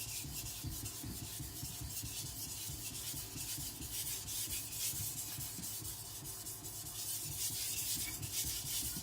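Carbon-steel CCK Chinese cleaver being stroked back and forth on a wet whetstone, a steady run of gritty scraping strokes as the bevel is ground low behind the edge to lower it.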